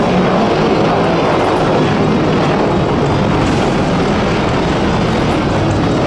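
AH-64 Apache attack helicopter's rotors and turbine engines running, a loud, steady noise throughout.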